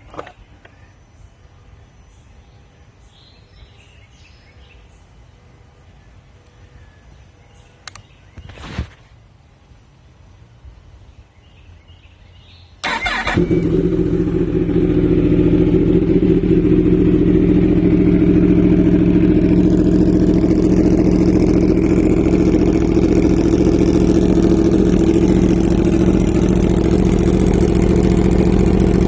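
After a stretch of quiet outdoor ambience, a Yamaha R1's inline-four engine with an Arrow exhaust fires up about 13 seconds in on a cold start, after sitting about two weeks, and settles straight into a loud, steady idle.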